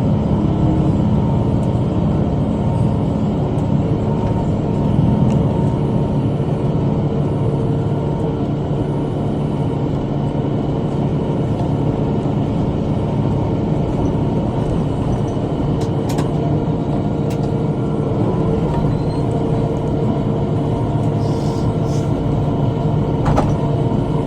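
Tractor engine running steadily under load, driving a rotary cutter (bush hog) through brush and grass. A few short clicks sound over the drone about two-thirds of the way in and again near the end.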